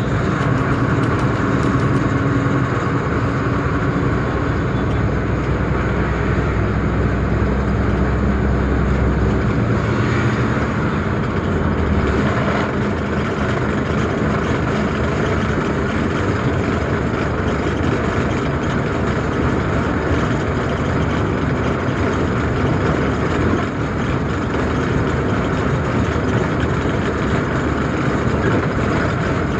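Tata truck's diesel engine running with steady road noise while driving; a deep low drone drops away about ten seconds in.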